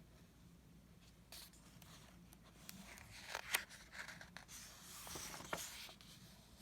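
Faint paper rustling and soft clicks of a picture book's pages being handled and turned.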